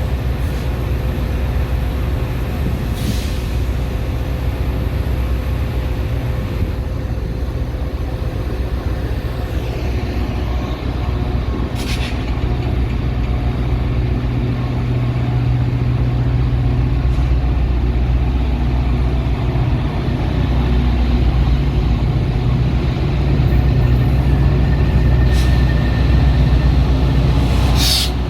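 Metra commuter train running with a steady low engine rumble, broken by a few brief sharp clicks or hisses. The rumble grows louder over the last several seconds.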